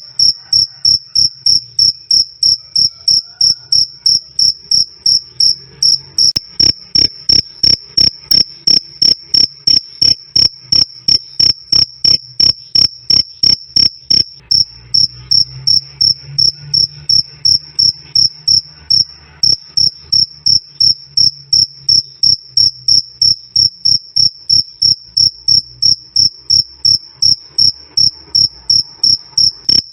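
A male cricket (jangkrik) chirping loudly and clearly, a steady, even run of short high-pitched "krik" chirps, about three a second.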